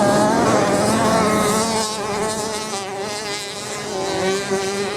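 Several racing motorcycle engines buzzing at high revs together, their pitches wavering up and down as the riders work the throttles.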